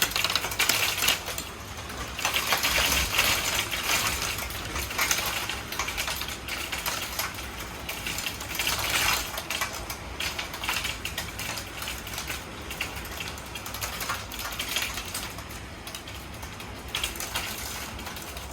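Hailstones clattering down in a dense, uneven patter of small hard hits that swells and eases.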